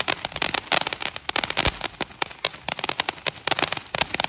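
Martian Man ground fountain firework (TNT Fireworks) spraying, with a dense, rapid crackle of many sharp little pops.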